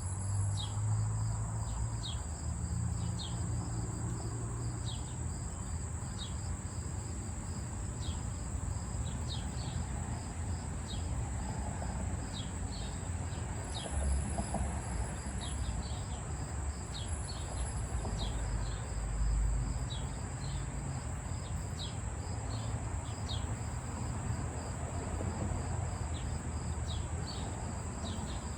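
Outdoor insect chorus of crickets: a steady high-pitched buzz, with short high chirps repeating irregularly about once a second, over a low background rumble.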